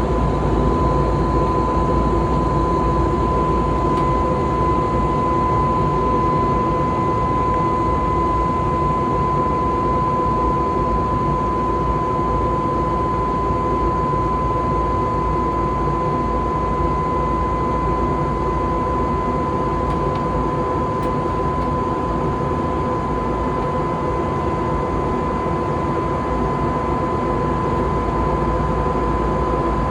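Jet airliner cabin noise in flight: a steady rush of engine and airflow noise with a constant high tone running through it.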